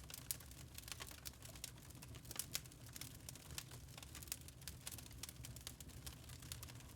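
Log fire crackling: irregular sharp pops and snaps of burning wood over a steady low rumble.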